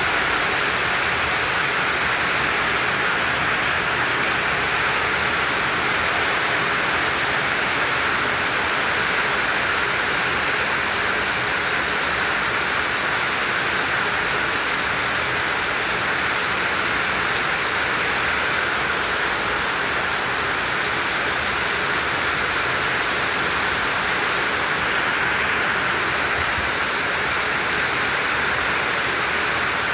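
Heavy tropical rain falling in a steady, dense downpour, an even hiss of countless drops.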